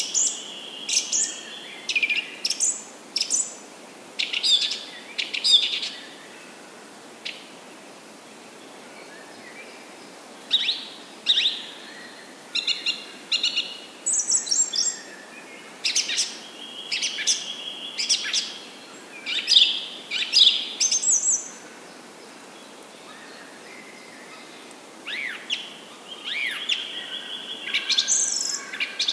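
Several birds calling: quick high chirps and trills with a few held whistled notes, coming in bouts with two quieter spells between them.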